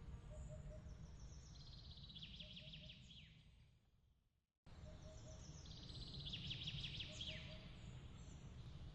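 Songbird phrases ending in a fast trill, with short repeated triple pips, over a low steady rumble. The sound fades to silence a little over four seconds in, then starts again abruptly with the same bird phrase repeating: the seam of a looped nature-ambience track.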